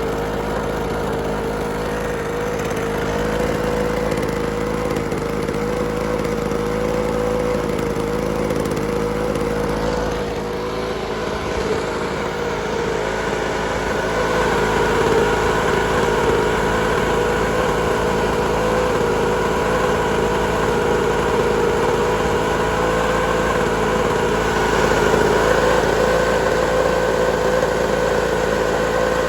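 Toro PowerVac 51988 handheld blower vac's small two-stroke engine running steadily with a fan whine after a cold start, getting a little louder and slightly higher in pitch about halfway through.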